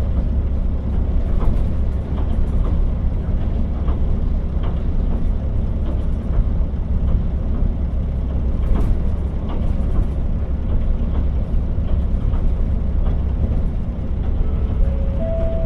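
Cabin running sound of the KiHa 40 diesel railcar: a steady low rumble of the diesel engine and wheels on the rails, with scattered light clicks. A short tone sounds near the end.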